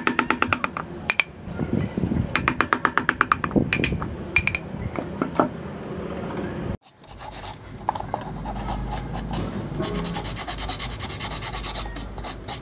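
Rasping and filing on wood: runs of rapid, rhythmic scraping strokes. A cut about two-thirds of the way through is followed by a steadier, fainter scraping over a low hum.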